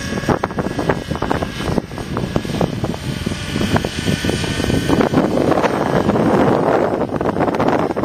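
Strong wind buffeting the microphone in uneven gusts, growing louder about five seconds in. Under it in the first couple of seconds, the faint steady whine of a Raptor 50 RC helicopter's glow engine.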